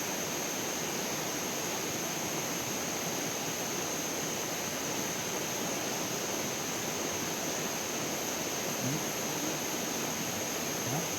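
Steady rush of flowing water, even and unbroken, with a steady high-pitched hum on top.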